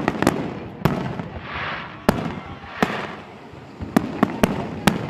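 Fireworks display bursting overhead: about eight sharp bangs at irregular intervals, several close together near the end.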